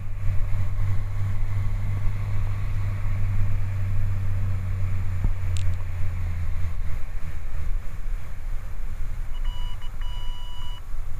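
Socata TB20 light aircraft's piston engine running at taxi power, a steady low hum that drops away about two-thirds of the way through. Near the end an electronic beep tone comes on, breaking off and resuming.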